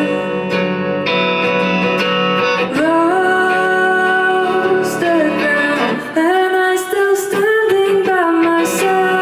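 Indie band playing a song live: guitar with a singer holding long notes, sliding up into new notes about three seconds in and again near seven seconds.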